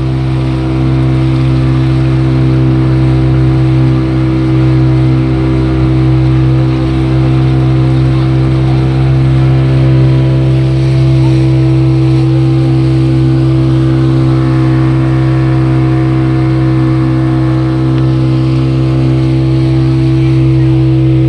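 Speedboat engine running hard at a steady speed, a loud, unchanging drone that holds one pitch throughout.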